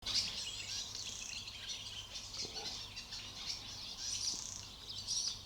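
Outdoor birdsong: many small birds chirping and twittering continuously, over a faint steady low hum.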